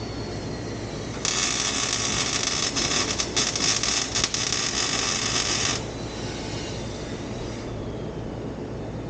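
Welding on an exhaust pipe: a crackling hiss that starts about a second in and stops sharply after about four and a half seconds. A steady low hum runs underneath.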